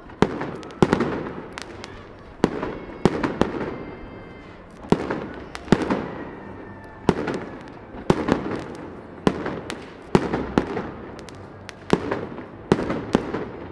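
Aerial display firework shells bursting in a steady string of sharp bangs, about one a second, each bang echoing and rumbling away before the next.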